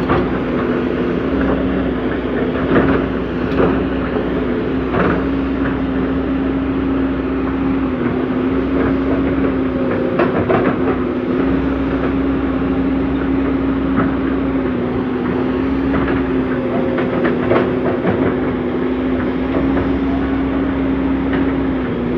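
Komatsu PC200CE hydraulic excavator's diesel engine running at a steady pitch while digging, with scattered knocks and clanks from the working machine.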